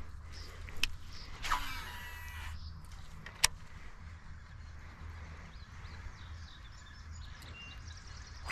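A spinning-reel cast: a click, then line whirring off the reel for about a second, cut off by a sharp snap. Faint light ticking follows later, over a steady low rumble.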